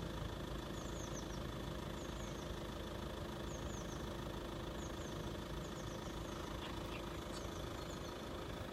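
Steady hum of a vehicle engine idling, with a held tone that fades out near the end. Faint high chirps repeat about once a second over it.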